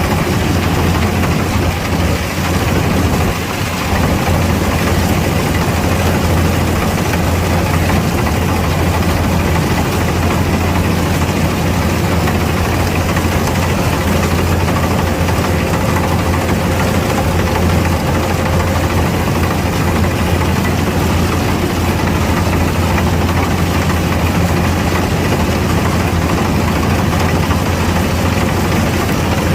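Kubota DC-105X combine harvester's diesel engine running steadily under working load, a loud, even drone.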